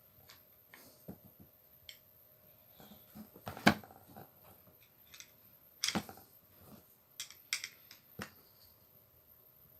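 Scattered small clicks and knocks of angle-grinder parts and tools being handled by hand, with two sharper knocks about three and a half and six seconds in.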